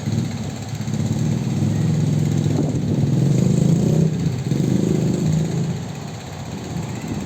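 A motor vehicle's engine running, growing louder toward the middle and easing off near the end.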